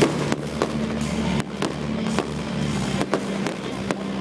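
Aerial firework shells bursting in a display, a sharp bang about every half second with crackle between, over music playing underneath.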